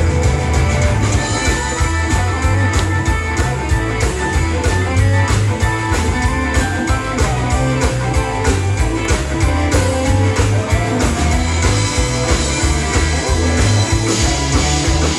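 Rock band playing an instrumental passage of an upbeat gospel rock song: guitar over bass and drums with a steady beat.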